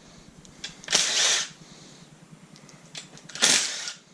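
A handheld power tool running in two short bursts, about a second in and again near the end, zipping fasteners off an LS engine during teardown.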